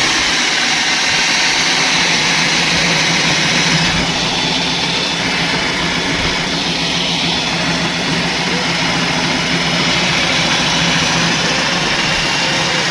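Electric concrete core-cutting machine running steadily: a loud, even motor whine over a continuous grinding hiss.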